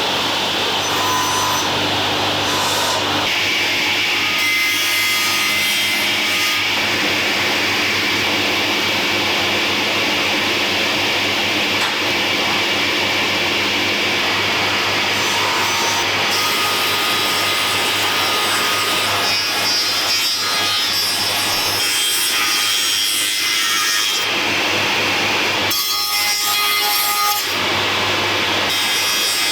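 A woodworking power tool cutting or working wood, running continuously with a steady hum, its tone shifting a few times.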